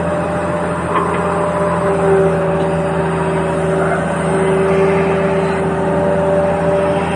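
Toy remote-control excavator running, a steady machine hum with several held tones.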